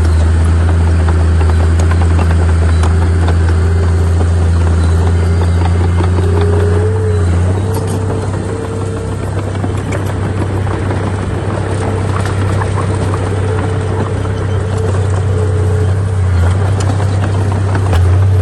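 Heavy earthmoving machine's diesel engine running steadily under load with a deep, even hum. The engine eases off slightly about eight seconds in and picks up again near the end.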